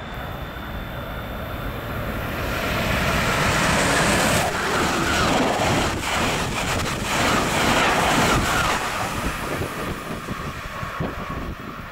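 Amtrak passenger train passing a station platform at high speed. The rush of wheels on rails and air builds over the first few seconds and is loudest as the cars go by, with rapid clattering from the cars. It then fades away near the end.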